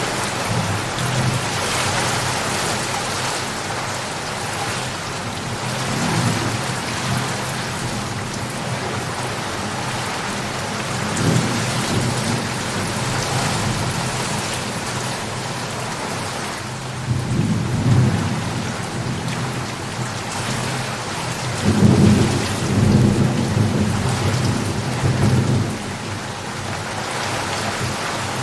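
Steady rain falling in a thunderstorm, with several low rolls of thunder swelling and fading; the longest and loudest roll comes about three-quarters of the way in.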